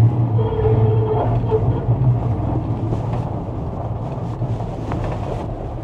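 A 1966 Chevrolet C10's 327 V8 engine running with a steady low drone.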